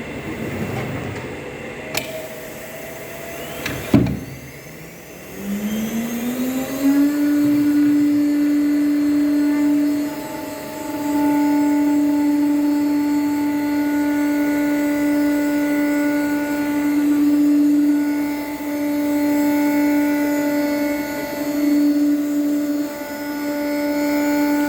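7.5 kW router spindle of a CNC wood router spinning up, its whine rising in pitch over about a second and a half, then running at a steady high pitch with a few brief dips. A sharp click comes just before the spin-up.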